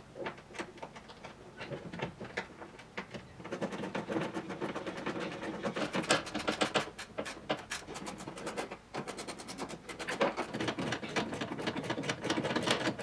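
Hand work fitting a car's heater box. Scattered knocks and clicks give way, a few seconds in, to a dense run of quick, light mechanical clicks that goes on to the end.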